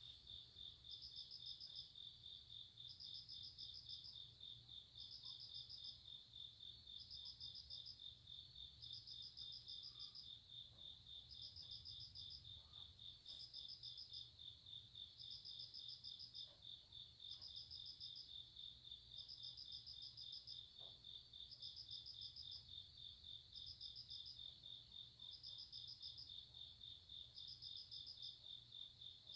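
Night crickets and other grass insects calling softly: one steady, fast-pulsing trill, with a second, higher-pitched insect chirping in short bursts about every two seconds.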